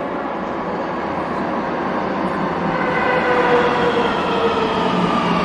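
Subway train running, a steady rumble with a motor whine that slowly falls in pitch and grows a little louder.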